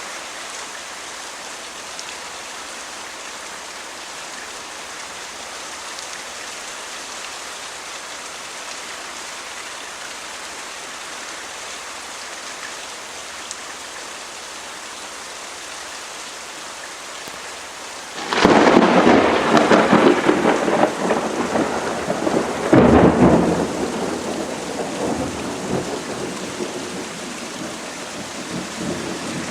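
Steady rain falling, then about two-thirds of the way through a sudden loud thunderclap crashes in and rumbles, with a second crack a few seconds later before the rumble dies away under the rain.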